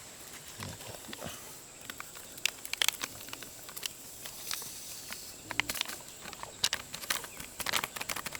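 Animal calls: a few short, pitched cries scattered among many small clicks and rustles.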